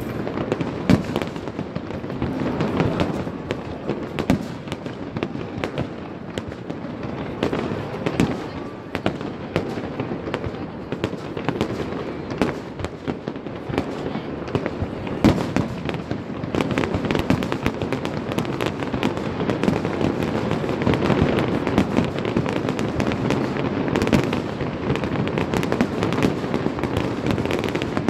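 Aerial fireworks display: a dense, continuous barrage of bangs and crackling shell bursts, with single sharper reports about a second in, around fifteen seconds in and around twenty-four seconds in.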